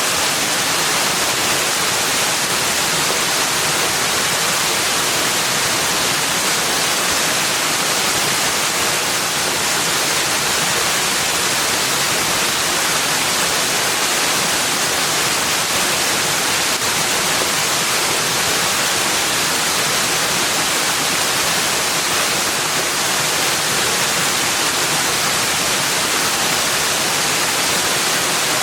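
Steady rushing water, an even hiss with no separate sounds in it, strongest in the high range and unchanging throughout.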